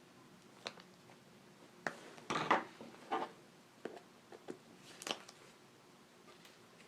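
Staples being pried out of a motorcycle seat pan: a string of short clicks and scrapes, spaced irregularly about a second apart, with a louder scraping pull about two and a half seconds in.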